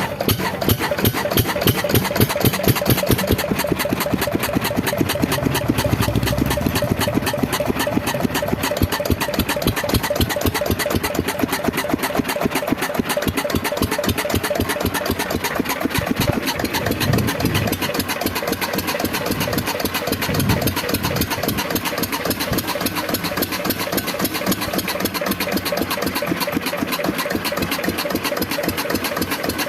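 Lister-type stationary diesel engine running steadily, with a rapid, even firing beat; a low surge swells briefly a few times.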